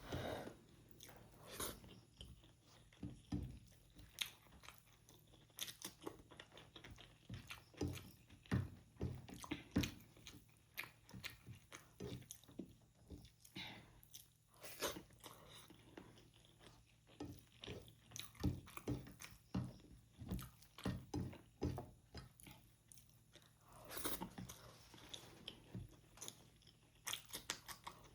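A person chewing and eating rajma chawal (rice with kidney bean curry) close to the microphone, with irregular short mouth clicks and smacks throughout.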